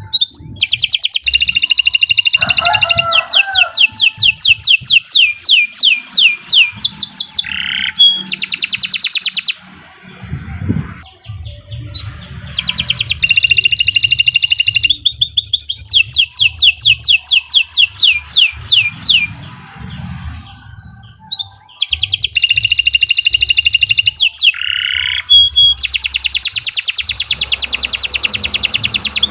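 Domestic canary singing long song phrases of fast trills and rapid repeated notes, in three bouts separated by short pauses.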